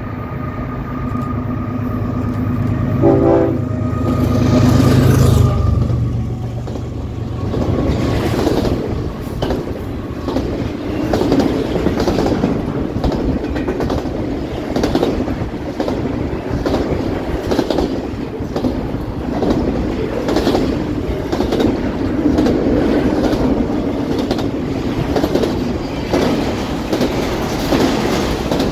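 CPKC freight train passing: the diesel locomotive's engine rumble builds and peaks a few seconds in, with a short horn note about three seconds in. After that comes the steady rattle and clickety-clack of steel wheels over rail joints as double-stack container cars roll by.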